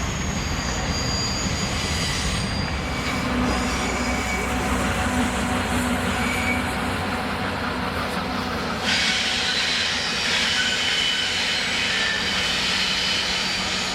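Freight train rolling past, its steel wheels squealing on the rail in thin high tones over the steady rumble of the cars. About nine seconds in, a louder hiss of wheel-on-rail noise comes in suddenly.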